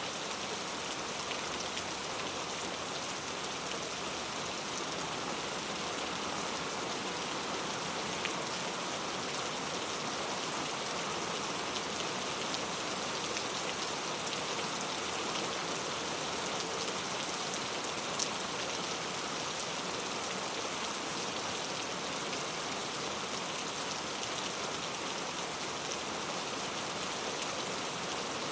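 Steady rain ambience: an even hiss of falling rain with a few faint drop ticks.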